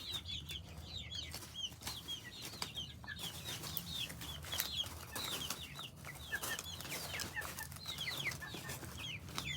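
A flock of chickens feeding, calling constantly in many short, high, falling peeps and chirps, with scattered sharp clicks.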